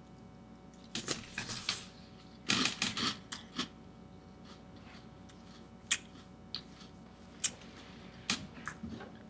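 Crunchy cereal being bitten and chewed close to the microphone, in two bursts of crunching, followed by a few separate sharp clicks.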